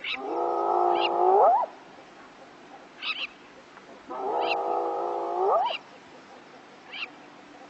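Hyena calling twice, each call about a second and a half long: a held note that rises sharply at the end.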